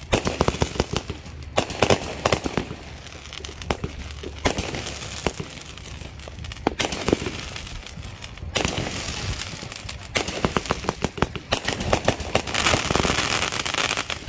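Consumer firework cake firing: volleys of sharp pops and bangs in dense clusters, one every few seconds.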